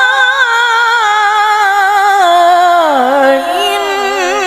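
A woman reciting the Quran in melodic tarannum style, drawing out the last vowel of "Rabbana" in one long ornamented phrase with a quick, wavering vibrato. About three seconds in her voice slides lower, then climbs back up.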